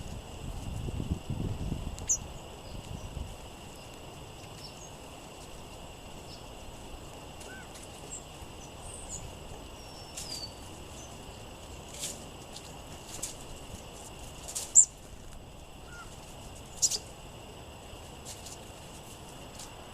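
Wind gusting on the microphone for the first few seconds, then small songbirds giving brief high chips and calls over a steady hiss. Several sharp clicks stand out, the loudest about fifteen seconds in.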